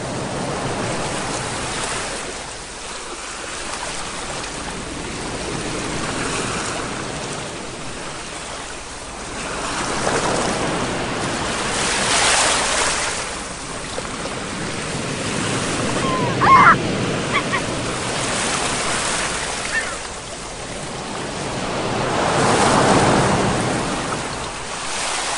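Ocean surf, waves breaking and washing in, the rush swelling and fading every several seconds. About two-thirds of the way through, a brief high call sounds over it.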